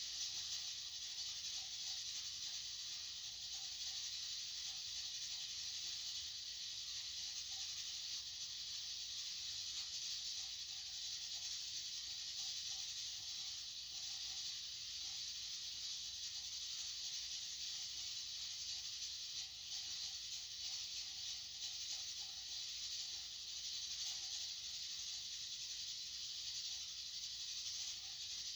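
Steady, even high-pitched hiss of white noise.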